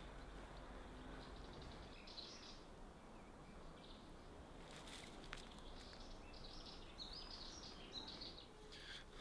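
Quiet outdoor woodland ambience with a few faint bird chirps now and then.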